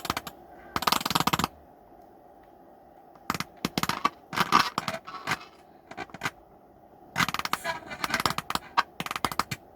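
Alpine TDA car stereo putting out irregular bursts of crackling and popping through its speakers, the sign of its sound fault.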